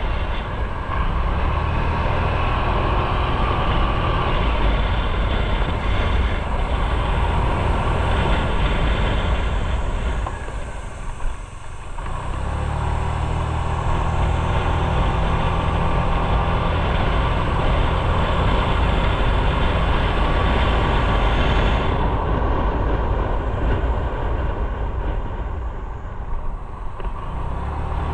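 A motorcycle being ridden: steady engine rumble under rushing noise. It eases off for a moment near the middle, then builds back up.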